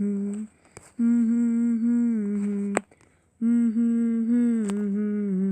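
A person humming long, held notes: a short one at the start, then two of about two seconds each with a brief gap between.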